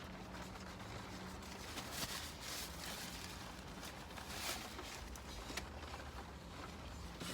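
Faint chewing and mouth sounds of someone eating a chicken sandwich, with a few brief crackly bursts about two and four and a half seconds in.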